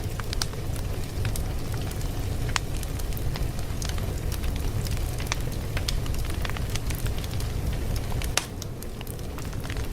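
Fire crackling: a steady low rumble with irregular sharp pops and snaps, one louder pop near the end.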